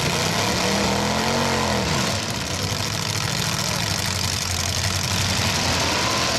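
Demolition derby truck engines running. One revs up and drops back about a second in, and another revs up near the end.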